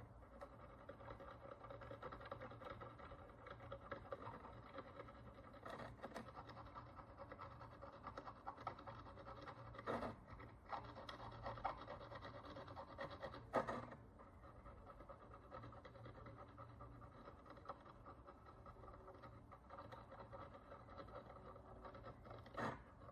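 Faint, dense scratching of a hand tool picking and scraping encrustation off an ancient bronze coin, with a few sharper clicks of the tool against the metal. The scratching is busiest in the first half and thins out after the loudest click.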